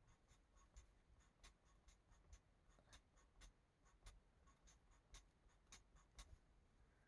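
Faint, quick scratching strokes of a colouring tool on a colouring-book page, a few strokes a second at an uneven pace.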